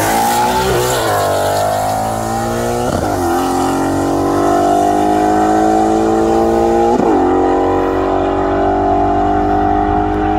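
Twin-turbo sports car engine accelerating hard at full throttle, its pitch climbing steadily through each gear, with upshifts about one, three and seven seconds in, each gear held longer than the last.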